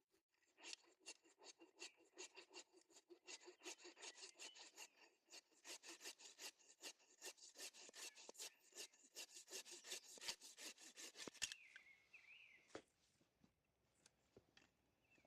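Hand-sawing dead guava wood in quick, even back-and-forth strokes that stop about eleven and a half seconds in, followed by a few faint knocks.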